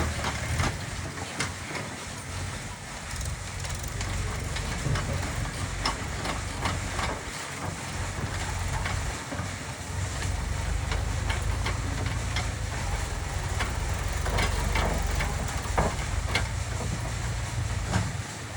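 Diesel engine of a JCB 3DX backhoe loader running steadily, with scattered sharp knocks and clanks throughout, typical of rock being scooped and dropped into a tractor trolley.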